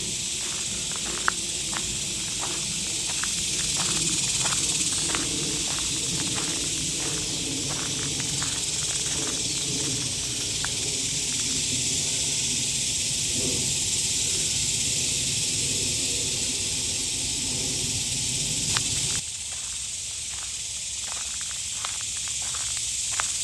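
A loud chorus of cicadas in the trees: a steady, high, hissing buzz. Short ticks run throughout, and a low rumble underneath cuts off suddenly about 19 seconds in.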